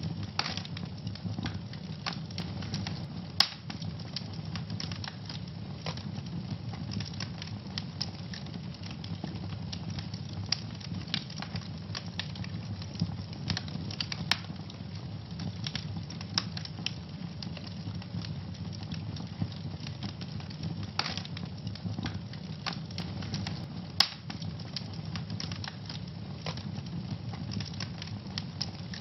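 Wood fire burning in a fireplace: steady low rumble of the flames with frequent irregular crackles and pops, the sharpest snaps about three and a half seconds in and again near the end.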